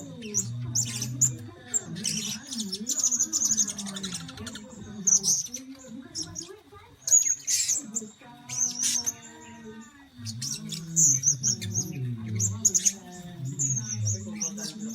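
Blue-crowned hanging parrots calling: a steady stream of short, high-pitched chirps and squeaky twittering notes.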